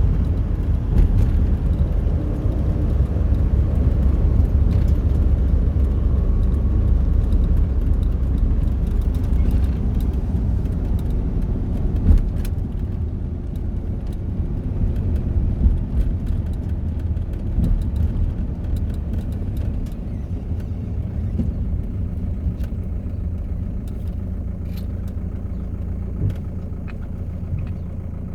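Steady low rumble of a car on the move, easing slightly in the second half, with a few faint clicks.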